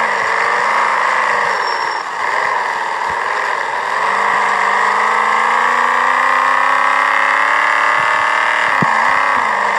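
Car engine running while driving, its pitch climbing slowly as it pulls up through the revs, with a brief drop about two seconds in and again near the end.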